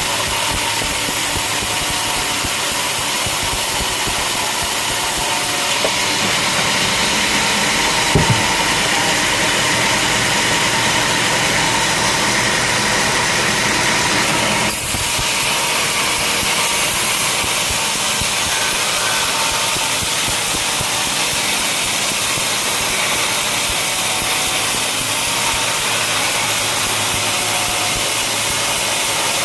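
Sawmill machinery running steadily, an engine-like drone under a hiss. The hiss turns brighter and higher for about nine seconds in the middle, with a single knock about eight seconds in.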